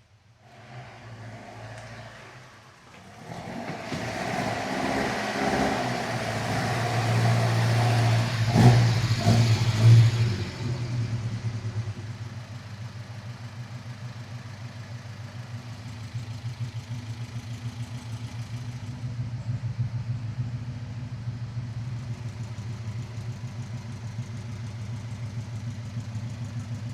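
Car engine running: it rises in level with a couple of revs over the first ten seconds, then settles into a steady, evenly pulsing idle.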